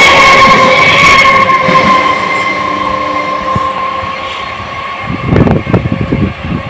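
Suburban electric local train running past, with a steady ringing tone over the rumble that fades away over the first few seconds. About five seconds in, loud irregular rumbling bursts set in.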